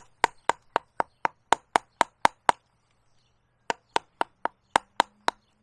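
Mallet tapping a carving gouge into the tree's wood, steady strikes about four a second, cutting a stop line along the edge of the face. The tapping pauses for about a second midway, then resumes at the same pace.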